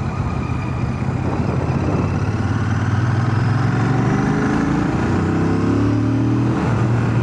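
Royal Enfield Shotgun 650's parallel-twin engine running on the road, its revs climbing slowly through the middle, with wind noise, heard through a microphone inside a full-face helmet.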